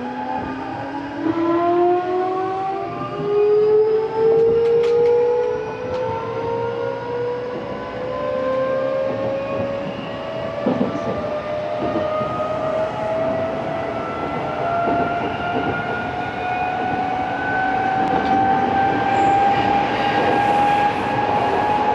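Odakyu 8000 series train's Mitsubishi SiC-VVVF inverter and traction motors whining as the train accelerates, several tones rising steadily in pitch together over the rumble of the wheels on the rails.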